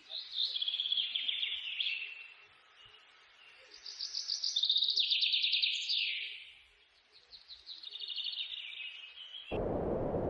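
A songbird singing three rapid trilled phrases, each stepping down in pitch. Near the end the song cuts off suddenly and a steady rushing noise takes over.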